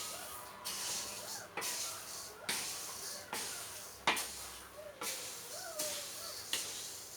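Dry grains (paddy, corn and millet seed) being stirred and turned in a pan while dry-roasting: a rhythmic rustling sweep through the loose seed about once a second, each stroke starting sharply and trailing off.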